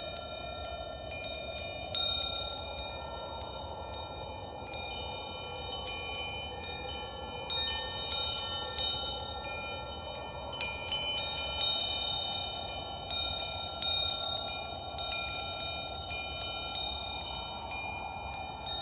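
Metal wind chimes ringing, their tubes struck at irregular moments and left to ring out over a steady soft hiss, with a louder cluster of strikes about halfway through.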